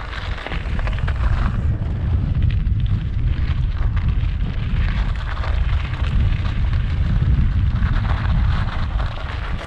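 Strong wind buffeting the microphone: a heavy, gusting low rumble with a shifting hiss above it.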